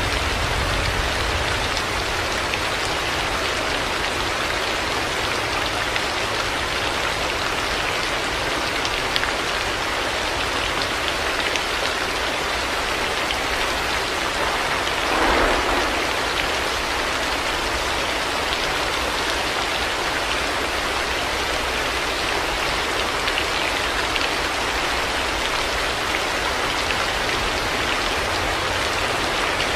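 Heavy rain falling steadily, a dense even patter of drops, with a brief louder patch about halfway through.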